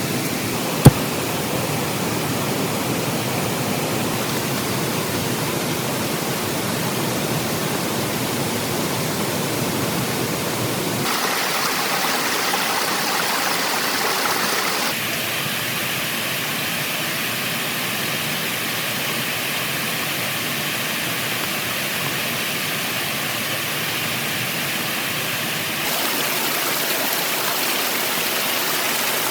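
Heavy rain falling steadily, a dense hiss whose tone shifts abruptly a few times. A single sharp click sounds about a second in.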